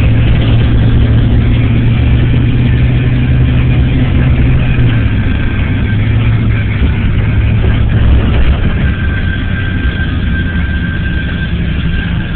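Car engine running with road noise while driving on a snowy road. The low engine hum drops about five seconds in, and the sound eases a little about eight seconds in.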